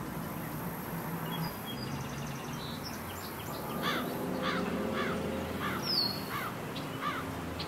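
Birds calling: a short call repeated about twice a second through the second half, with a quick falling whistle about six seconds in, over a steady low background hum.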